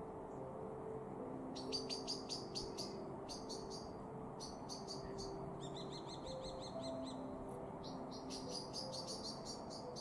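Small bird chirping in quick series of short, high, sharp notes, about five a second, in several runs starting about a second in.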